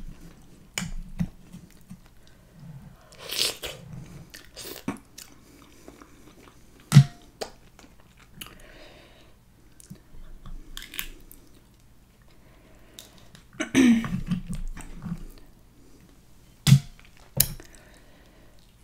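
Close-miked chewing and wet mouth sounds of someone eating sauce-coated mussels, with sharp clicks of the mussel shells being pried apart and handled in the bowl; the loudest click comes about seven seconds in, with two more near the end.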